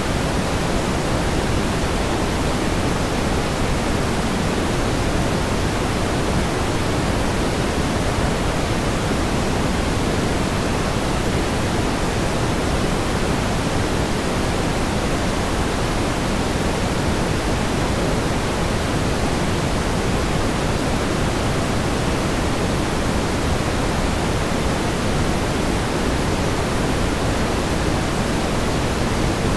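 Steady pink noise: an even, unchanging hiss, stronger in the low and middle range than at the top.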